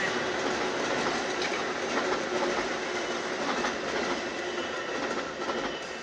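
Metra commuter train passing, its wheels clacking over the rail joints amid a steady rumble that slowly fades toward the end.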